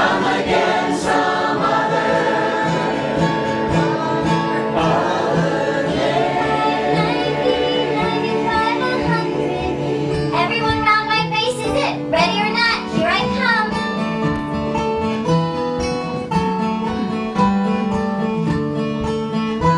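Several voices singing a folk song in harmony over acoustic guitar, with one voice wavering through sliding high notes about eleven seconds in.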